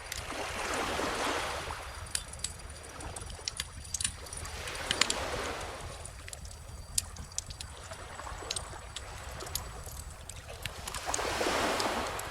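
Bonfire crackling with scattered sharp pops, over gentle ocean waves washing in: three soft swells, about a second in, around five seconds, and near the end.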